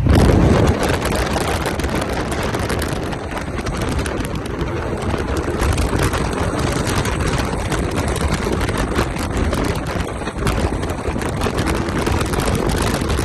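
Car engine noise at a street car meet, loud and steady, starting suddenly. A rough, crackling noise runs over it throughout.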